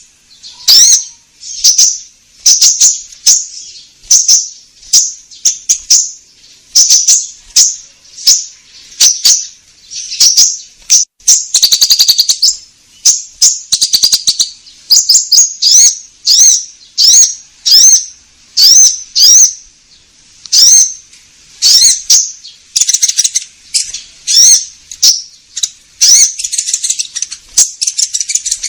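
A konin bird calling over and over: short, high chirping phrases about once a second, some with quick upswept notes, others fast rattling trills. This is the song of a vocal ('gacor') konin, of the kind played as a lure to draw wild konin in.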